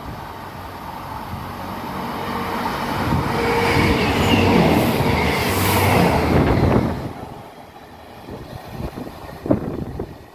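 Passenger train coming through the station: its running noise builds to a loud peak with a few steady tones, then drops off sharply about seven seconds in.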